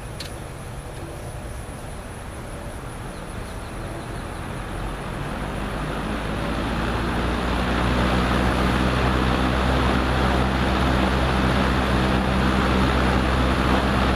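Frigid B3300 box fan with a Westinghouse motor running, its four metal blades making a steady whoosh over a low motor hum. A brief click comes right at the start. The sound grows steadily louder over the first eight seconds, then holds even.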